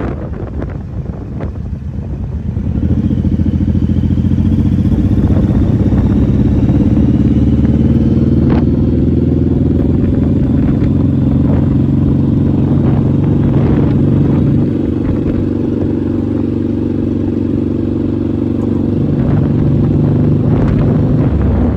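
Motorcycle engine running steadily under way. It comes up loud about two and a half seconds in, eases a little around the middle, picks up again, and near the end drops back to wind rushing over the microphone.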